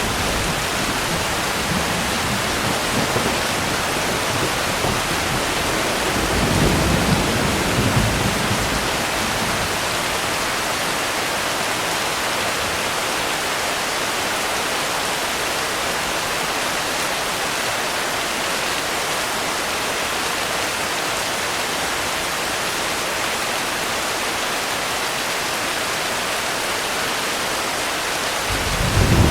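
Steady rain with an even hiss. A low roll of distant thunder rumbles through the first several seconds and fades away, and another rumble starts to build near the end.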